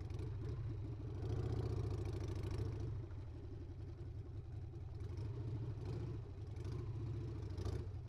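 Harley-Davidson Sportster's air-cooled V-twin engine running at low speed while riding slowly on a dirt road, swelling louder for a couple of seconds about a second in, then settling back.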